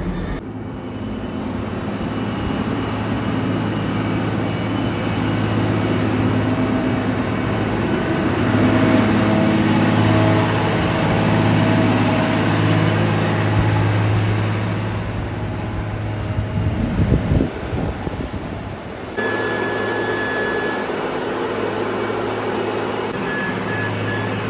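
Storti Dobermann SW HS 330 self-propelled feed mixer wagon running with a steady low mechanical hum that swells in the middle. The sound changes abruptly about three-quarters of the way through.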